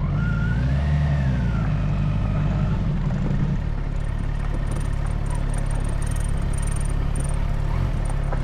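Engine running steadily with a deep, even rumble; the drone settles a little lower about three and a half seconds in, and faint high ticking comes in over it.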